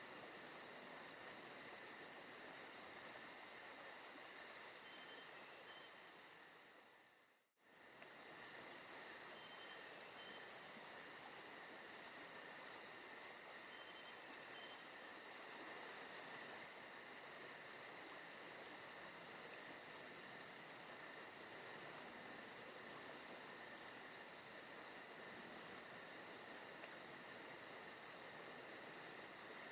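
Forest ambience of crickets and other insects chirring steadily at several high pitches, with a fast, even pulsing trill on top and a few faint short double chirps. About seven seconds in the sound fades out to nothing and comes straight back.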